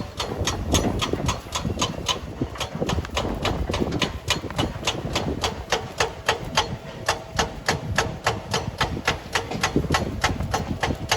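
Machine running with a low rumble under a rapid, even clacking, about four to five knocks a second.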